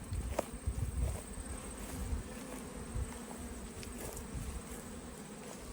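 Honeybees humming steadily around a queen mating nuc, an excited buzz of many bees.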